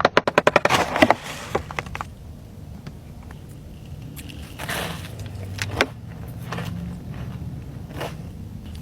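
Close-miked handling and eating sounds from an ASMR cookie tasting: a rapid run of sharp clicks in the first second, then scattered crisp crackles and crunches over a steady low hum.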